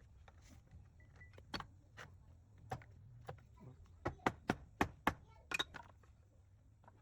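A series of sharp knocks and clicks, with a quick run of about five loud knocks around four to five seconds in.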